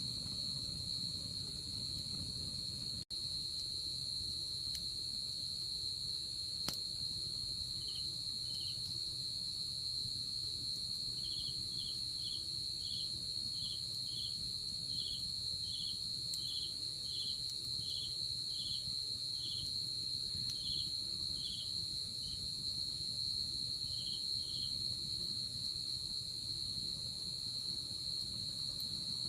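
Night insects: crickets keep up a continuous high, steady trill, and from about eight seconds in a second insect joins with short regular chirps, roughly one or two a second, stopping again a few seconds before the end. The sound drops out for an instant about three seconds in.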